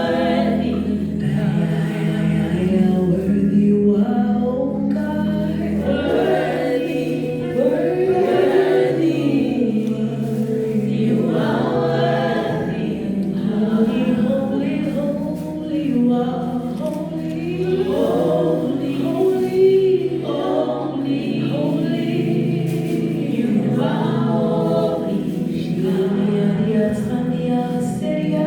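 Choir of voices singing a gospel worship song in harmony, over steady low sustained notes.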